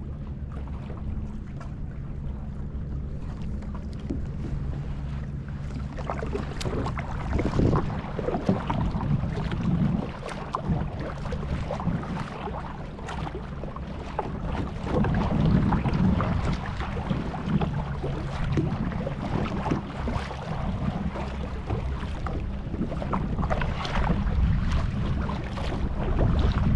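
Kayak out on the bay: water splashing and lapping around the hull in irregular surges, with wind on the microphone. A low steady hum with even lines is plain for the first six seconds or so, then sinks under the water sound.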